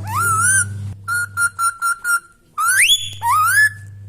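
Indian ringneck parrot whistling: a wavering whistled call, then a quick run of about six short same-pitched notes, then two rising whistles near the end.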